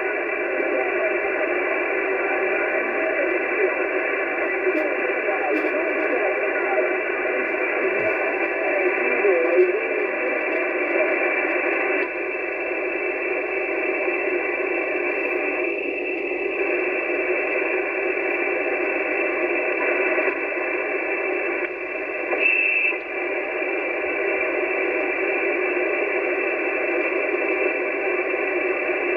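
11-metre CB/freeband radio receiver hissing with steady static, with faint voices of distant stations under the noise in the first ten seconds or so. A brief high tone sounds about three quarters of the way through.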